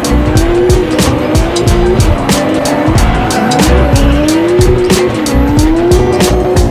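Music with a steady beat over a drift car's engine revving up and down and its tyres squealing in a slide.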